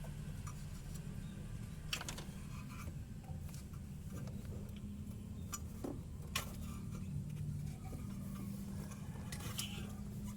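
A few light clicks and clinks scattered over a steady low hum.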